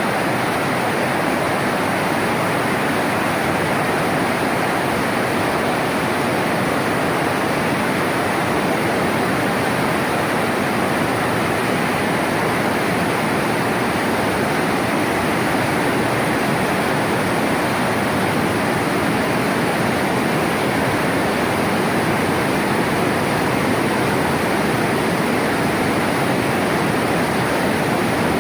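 Flash-flood water rushing steadily in a swollen stream, a dense, even rush of water with no breaks.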